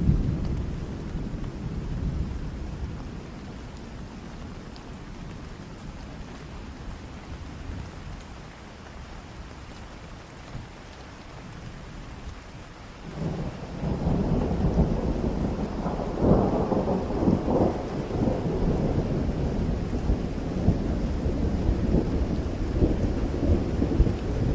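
Steady rain with rolling thunder. A rumble dies away over the first few seconds, and about thirteen seconds in a long new roll of thunder builds, is loudest a few seconds later and rumbles on to the end.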